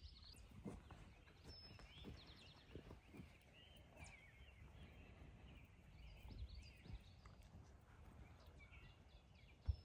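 Near silence in woodland: faint chirping birdsong over a low rumble, with one short thump near the end.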